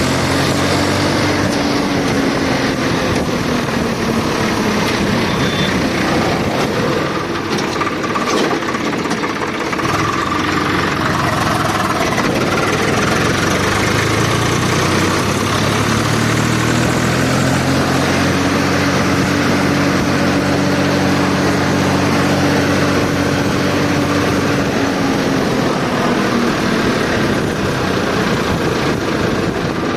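Tractor engine running, its pitch rising and falling as the revs go up and down, with a long spell of higher revs in the second half.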